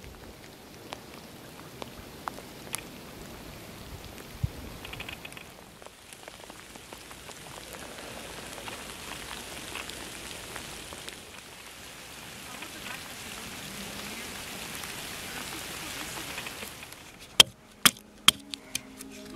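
Light rain pattering steadily on the river and bank, then near the end about half a dozen sharp chops of a small axe biting into a thin sapling.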